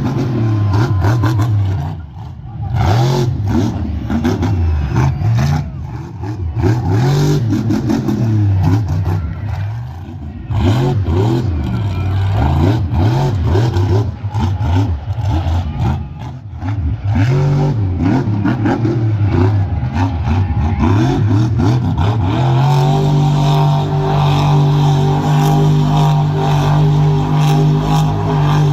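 Monster truck engine revving hard, its pitch climbing and falling again and again with short lifts off the throttle. Near the end it is held at a steady high pitch for about six seconds, then drops away.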